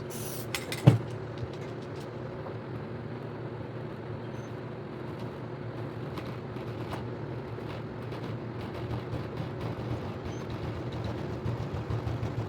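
Steady low mechanical hum, with one sharp knock about a second in and a few faint clicks.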